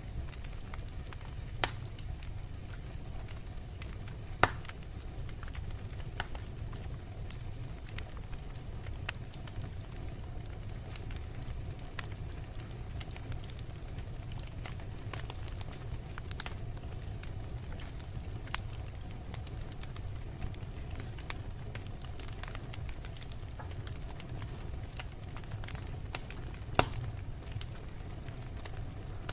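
Wood fire burning in a fireplace: a steady low rumble of flames with scattered crackles and a few sharper pops from the burning logs, the loudest about four seconds in and near the end.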